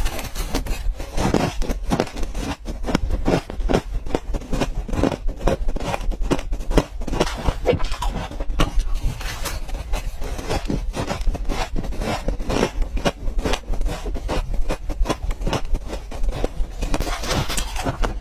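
Ice being bitten and crunched between the teeth: a dense, irregular run of sharp cracks and crunches, several a second.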